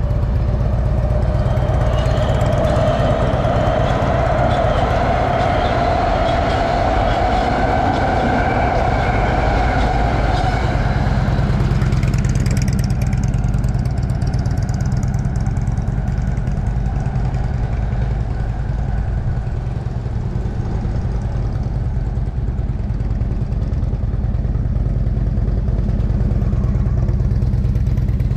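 Motorcycle engine running, its note rising during the first several seconds, then fading away about twelve seconds in. A steady low rumble continues underneath.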